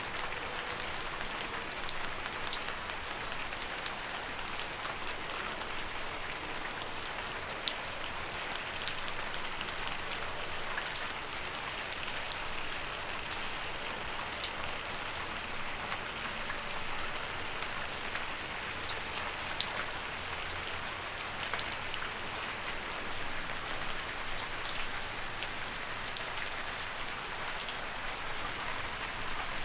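Steady rain falling, an even hiss with many distinct drops pattering and ticking on a surface close by.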